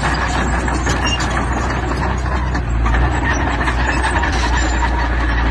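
Heavy diesel engine of earth-moving machinery running steadily, with rattling and clanking over it.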